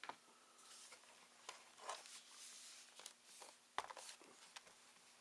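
Cables being unplugged from a ThinkPad T61 laptop and handled: a handful of faint clicks and rustles, the sharpest click about four seconds in.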